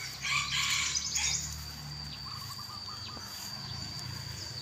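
Birds calling over a steady high insect whine: a loud chattering song about a quarter second in, lasting about a second, and a short run of quick lower chirps near the middle.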